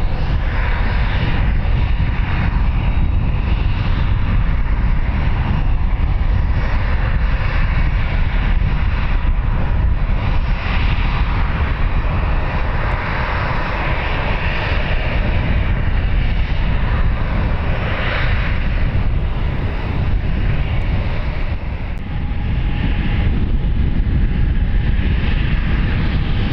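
Aircraft engines running loud, a dense roar with a heavy low rumble that swells and eases in waves throughout.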